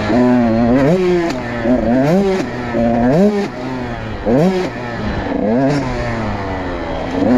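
Motorcycle engine under hard acceleration, its pitch climbing and then dropping sharply about five or six times as the rider works up through the gears.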